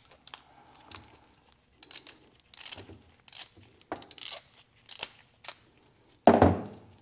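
Metal hand tools working on a bolt of the tractor's fuel filter bracket: a string of short clicks and scrapes, with one loud metallic clank about six seconds in.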